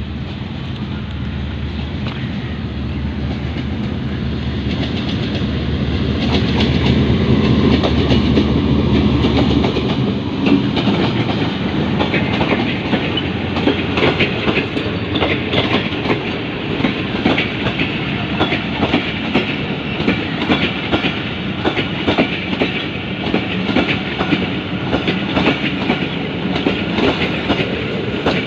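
Subak Raftar railcar train approaching with a low steady drone that grows louder. From about ten seconds in it gives way to rapid, continuous clickety-clack of wheels over rail joints as the cars pass.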